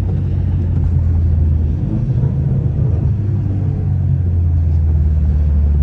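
BMW F30 328i's turbocharged four-cylinder engine, fitted with an aftermarket downpipe, running as the car drives, heard from inside the cabin with road noise. The engine note wavers about two seconds in, then settles back to a steady hum.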